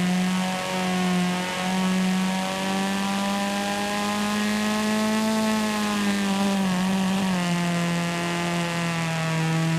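Video game car engine running at a steady speed, a buzzy drone whose pitch rises slightly and then drops a little about two-thirds of the way through.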